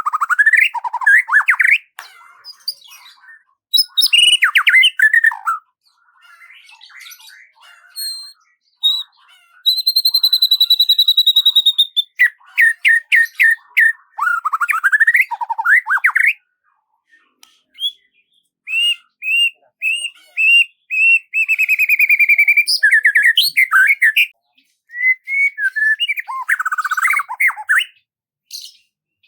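A songbird singing a varied song in separate phrases: rising and falling whistled notes, one held note, runs of rapid repeated chirps and a fast trill, with short pauses between phrases.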